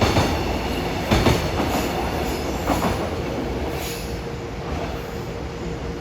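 Freight train of container wagons rolling past, wheels clacking over rail joints with a few sharp knocks in the first three seconds, then the rumble fading steadily.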